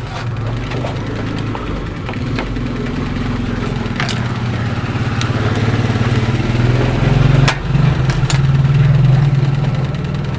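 A motor or engine running steadily with a low hum that swells near the end, with a few sharp clicks over it.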